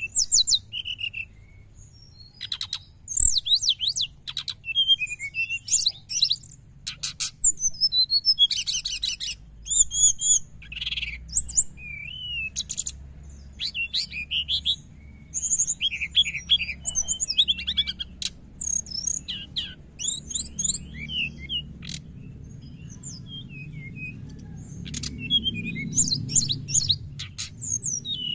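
Brown-chested jungle flycatcher singing a fast, chattering twitter (ngriwik): quick, varied high chirps and trills in short bursts with brief pauses between them, over a faint low hum.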